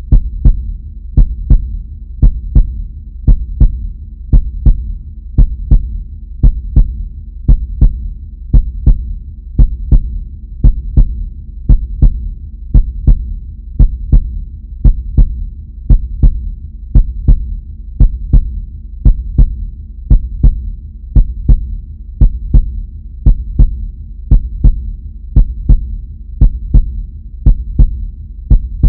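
Heartbeat sound effect: steady lub-dub double thumps, about one beat a second, over a low steady hum.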